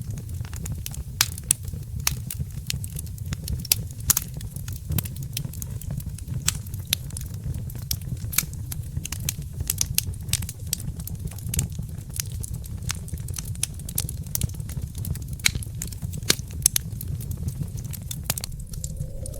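Wood fire in a fireplace crackling: frequent sharp, irregular pops and snaps over a steady low rumble of the flames.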